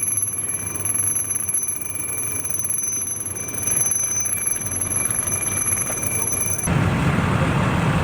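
A steady high-pitched electronic tone holds over low background noise. About seven seconds in it cuts off abruptly to a louder low rumble.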